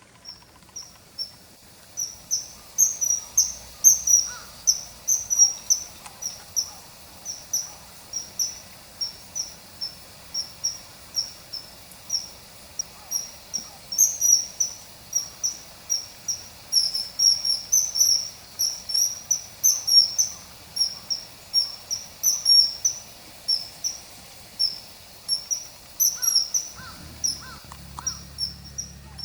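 A small bird's high, sharp call notes, repeated two or three times a second at uneven spacing, from a field-guide recording laid over the footage.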